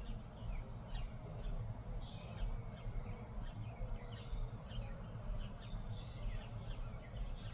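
Small birds chirping, a scatter of many short, quick falling chirps, over a low steady rumble.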